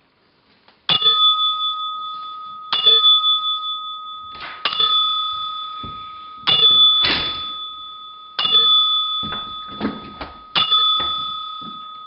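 A church bell tolled six times, about one stroke every two seconds, each stroke ringing on and fading into the next, with a few knocks between strokes.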